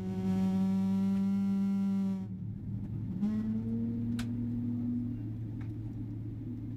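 A held, steady musical drone, boarding music of the aircraft's cabin system, cuts off about two seconds in, leaving the steady low hum of the Boeing 777-300ER cabin. A faint whine rises slightly in pitch in the middle, and there is a single sharp click.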